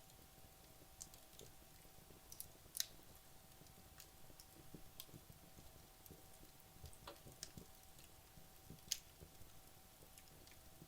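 Wood logs burning in a fireplace: faint, scattered crackles and small pops over a soft hiss, with two sharper pops about three seconds in and again about nine seconds in.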